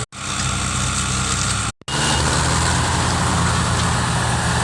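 Tractor engine running steadily at a constant low note, cut by two brief dropouts in the sound, one at the very start and one a little under two seconds in.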